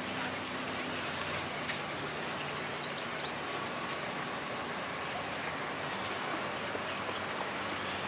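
Outdoor ambience of a busy beachfront street: a steady wash of background noise, with a bird giving a quick run of high chirps about three seconds in.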